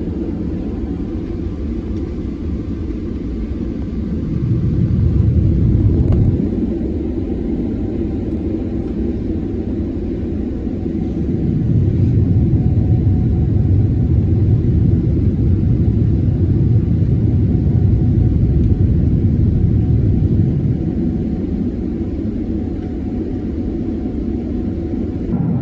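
Cabin noise of an Airbus A330-300 during takeoff and climb: a steady low rumble of engines and airflow that swells louder twice, briefly about four seconds in and then for most of the middle.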